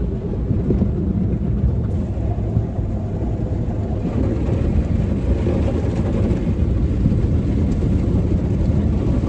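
Automatic car wash machinery running around the car, heard from inside the cabin: a steady, loud rumble with a rushing hiss that swells a little in the middle.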